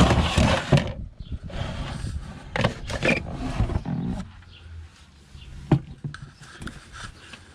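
Plastic waste cassette of a Thetford cassette toilet being pulled out of its compartment: rough scraping and sliding for about four seconds, loudest at the start, then a single knock.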